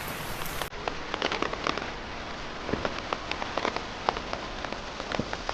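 Rain falling steadily, with many close drops pattering and ticking on nearby surfaces. The sound dips sharply for a moment just under a second in, then carries on.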